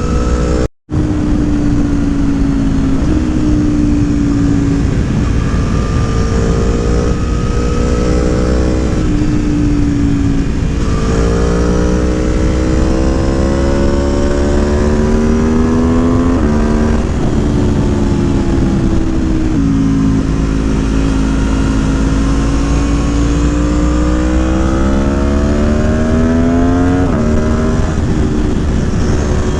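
Aprilia Tuono motorcycle engine with a Gabro Racing Stage 3 tune, ridden through the gears: the pitch climbs under acceleration and drops at each upshift, several times over, over steady wind and road rumble. The sound cuts out completely for a moment about a second in.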